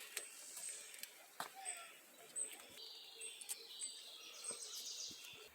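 Small birds chirping: short high notes repeat every half second or so, with a longer run of calls from about three seconds in. Scattered light clicks sound over a faint outdoor background.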